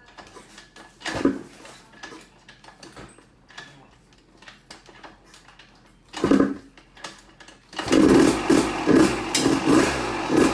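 1994 Yamaha WR250 two-stroke dirt bike engine, fitted with an FMF exhaust, firing up about eight seconds in after kick-starting and then running loudly with an even, pulsing exhaust note.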